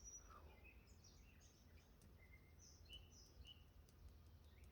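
Near silence with faint, scattered bird chirps and a low background hum.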